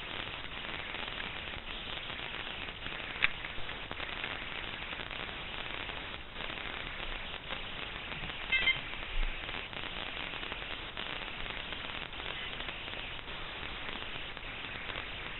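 Steady static-like hiss, with a sharp click about three seconds in and a brief crackle of clicks a little past the middle.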